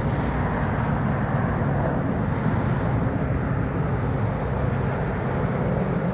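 Helicopter flying overhead, a steady engine and rotor sound that holds at one level throughout.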